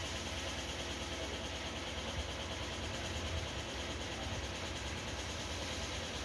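Steady low mechanical rumble with a constant hiss over it, unchanging throughout.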